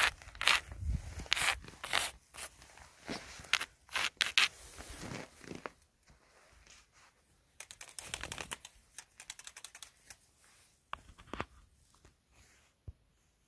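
Footsteps crunching in snow, a run of steps in the first half, then a quieter burst of crunching and a few scattered crackles.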